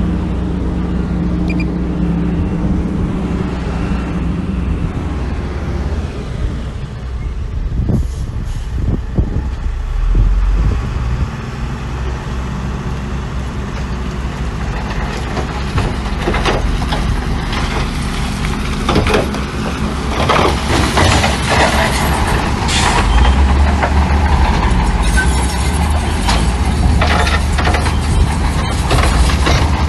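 Heavy diesel earthmoving machinery working: a diesel engine runs steadily at first, and from about halfway on repeated knocks and clanks sound over the engine's low rumble.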